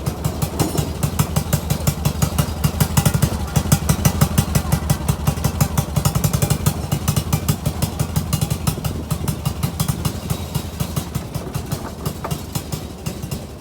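Internal-combustion engine of a steam-outline 10¼-inch gauge miniature locomotive running steadily with a rapid, even exhaust beat.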